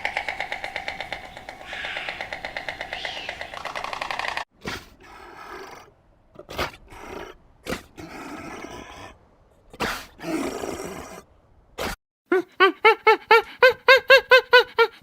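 A sequence of animal calls: a rapidly pulsing pitched call, then several short, rough grunt-like calls with gaps between them, and from about twelve seconds in a run of quick repeated chirping calls, about four a second.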